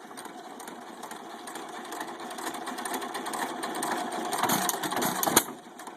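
1917 United 2½ hp hit-and-miss stationary engine running well after restoration and retiming, a steady rapid mechanical clatter. One sharp bang stands out about five and a half seconds in.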